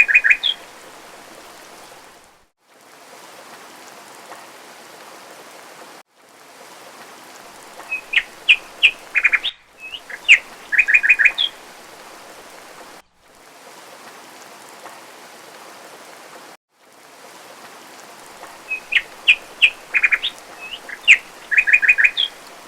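Steady rain hiss with a songbird singing over it in bouts of quick, repeated chirping notes, at the start, about eight seconds in and again near the end. The rain cuts out for a moment several times.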